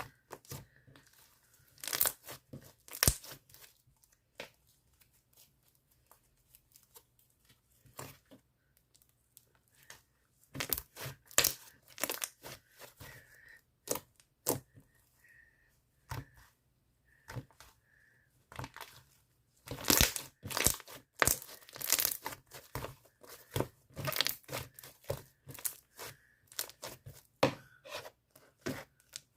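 Crinkly hologram paper or film being handled, crumpled and torn in short irregular bursts of crackling. The bursts come in clusters with quiet gaps between, busiest in the last third.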